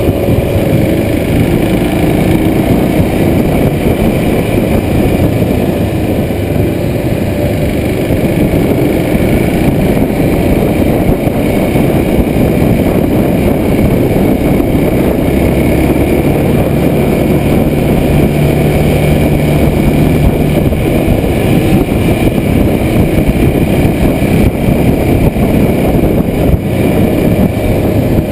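Kawasaki Super Sherpa's single-cylinder four-stroke engine running under way up a climb, heard through heavy wind rumble on a chest-mounted action camera. A steadier engine hum stands out for a few seconds past the middle.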